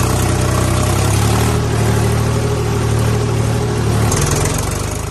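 An engine running steadily at idle. About four seconds in its note shifts, and near the end it starts to fade away.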